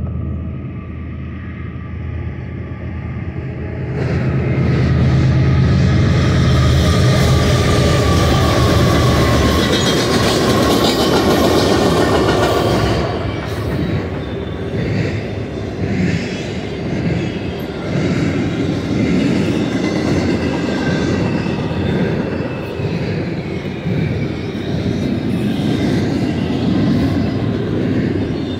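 A BNSF double-stack intermodal train passing at speed. The low drone of its five GE diesel locomotives (ES44C4s and a Dash-9) builds and peaks as they go by in the first ten seconds. The steady rumble of the well cars follows, with uneven wheel knocks over the rail joints.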